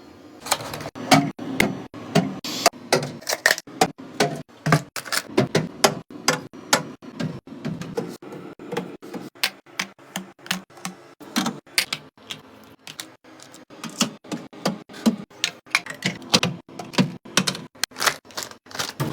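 A rapid, irregular run of sharp clicks and taps, several a second, like keys or a small mechanism being struck.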